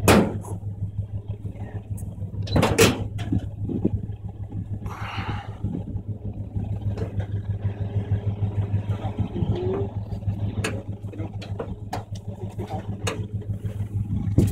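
1965 Buick Skylark engine idling with a steady, evenly pulsing note. A few brief knocks stand out, the loudest about two and a half seconds in.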